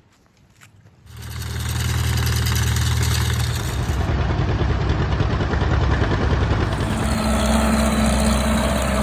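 A tractor engine running steadily. It comes in suddenly about a second in, and its sound shifts a little twice, as if cut together from separate takes.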